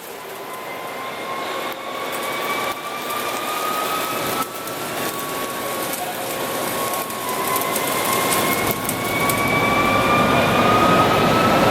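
Okuma Cadet CNC lathe running, its whine gliding up in pitch twice as the machine noise steadily grows louder, as when the spindle is ramped up in speed.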